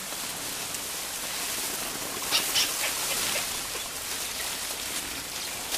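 Flooded river water rushing steadily, with a few short high-pitched calls or splashes about two and a half seconds in.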